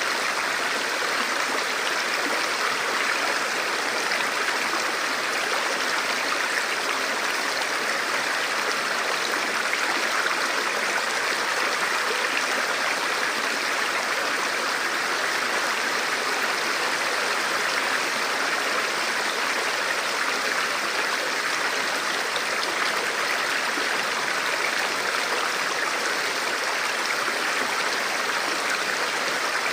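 A forest river or stream flowing over rocks: a steady rushing and babbling of water, even throughout.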